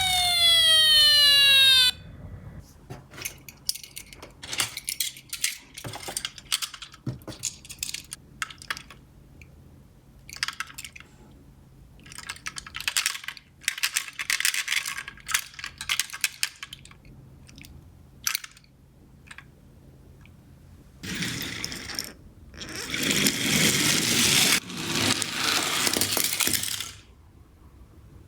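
Toy minicar's electronic siren sweeping down in pitch, cut off about two seconds in. Then scattered small clicks and clinks of toy cars, and two stretches of louder rolling rattle near the end.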